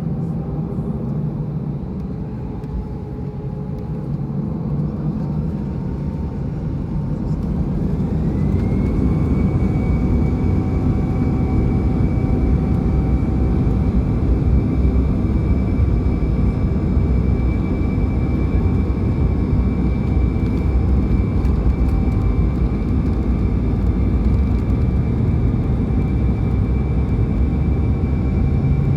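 Airbus A320 jet engines heard from inside the cabin, spooling up to high thrust. A rising whine climbs about eight seconds in and settles into a steady high tone, while the deep rumble grows louder and then holds.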